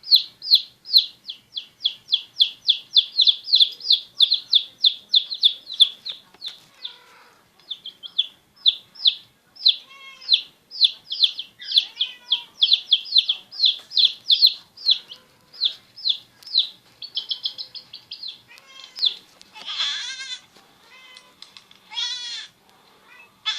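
A small animal giving rapid, high-pitched peeping calls, about four a second, in a long run that turns irregular after about seven seconds. Near the end come a couple of longer, rougher cries.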